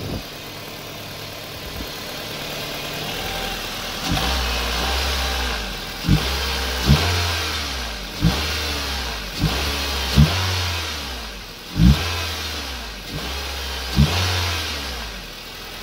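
A car engine, freshly jump-started on a flat battery, is revved in repeated throttle blips. From about four seconds in it rises about eight times, and each rise falls back toward idle.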